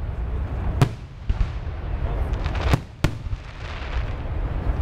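Aerial firework shells bursting: a sharp bang about a second in, then two more close together about three seconds in, with a rough crackling hiss and low rumble between them.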